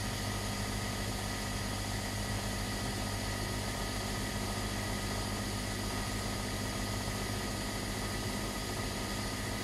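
Gas heater running steadily: an even hiss of flowing gas and burning flame over a low, constant hum.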